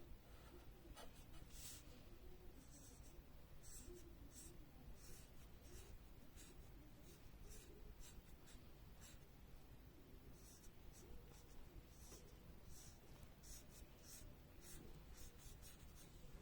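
Faint, irregular scratching of a colouring tool stroking across paper while a picture is coloured in.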